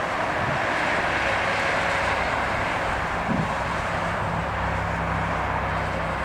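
Airbus A330-243's Rolls-Royce Trent 700 jet engines heard as the airliner lands: a steady rushing jet noise with a low, even hum beneath it.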